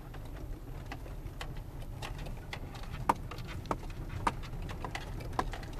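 Inside the cabin of a moving Lada Granta liftback: a steady low road and engine rumble with scattered light clicks and knocks, a few sharper ones in the second half. The only knock the owner hears in the cabin is a loose alarm unit tapping against the steering column; otherwise there are no squeaks or rattles from the panels.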